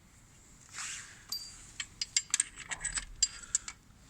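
Small metal engine parts such as bolts and nuts clinking against one another and against metal as they are picked out by hand: a quick, uneven run of sharp ringing clinks, with a couple of short scrapes.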